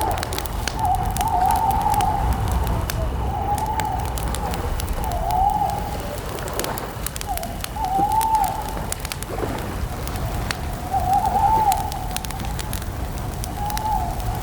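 Wood campfire crackling with scattered sharp pops over a steady low rumble. A short rising-and-falling call repeats about every one and a half to two seconds over it.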